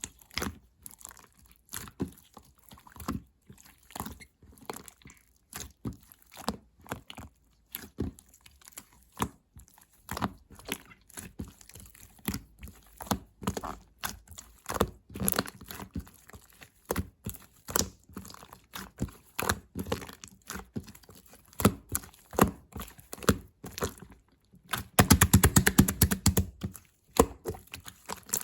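Slime being squished and poked by hand, making irregular sticky clicks and pops, then a brief run of rapid crackling clicks near the end.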